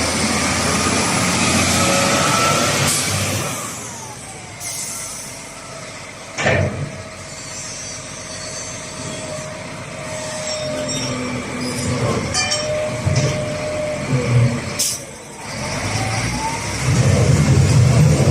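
SDLG LG956L wheel loader's CAT diesel engine running loud, then dropping back to a quieter steady note with a whine, broken by a few sharp knocks, and rising loud again near the end.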